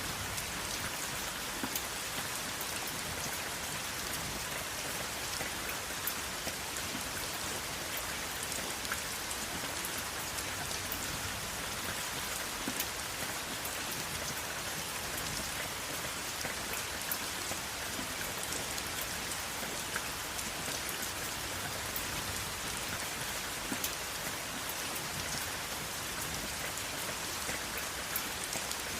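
Steady rain falling, with a dense hiss of drops and many small, sharp drop impacts scattered throughout; no thunder.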